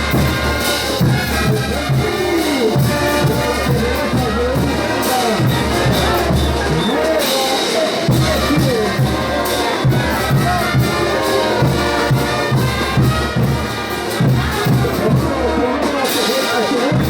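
Bolivian brass band playing music for the Ch'uta dance: brass melody over a steady drum beat.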